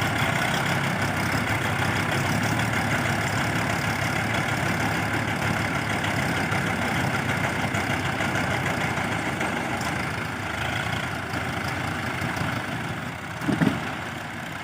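Tractor diesel engine running steadily, easing off a little in the last few seconds. A brief, louder sound stands out shortly before the end.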